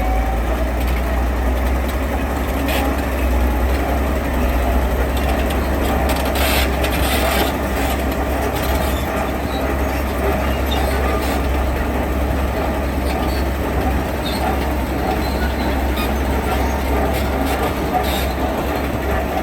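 Heavy diesel construction machinery running steadily with a deep low rumble, with a few scattered knocks and clanks, one a little after 2 seconds in, a cluster around 7 seconds, and one near the end.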